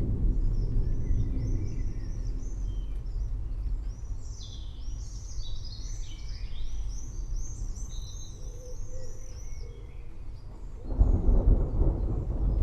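Distant thunder rumbling and fading away over the first few seconds. Then songbirds sing, with a quick run of repeated high chirps in the middle. Near the end a new roll of thunder swells up suddenly.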